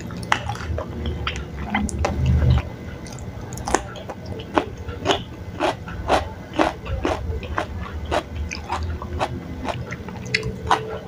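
Close-miked chewing of chewy tapioca-dough strips (cirambay), with wet mouth clicks and smacks coming about twice a second.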